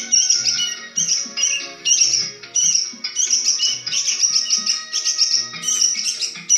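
A songbird singing in rapid, repeated chirps and trills, over background music with a regular beat.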